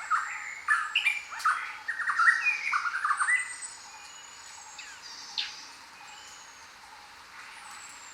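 Several wild birds calling together: a busy run of quick chattering and squawking calls for the first half, then quieter, with thin high whistles and one sharp call about five seconds in, over a steady hiss.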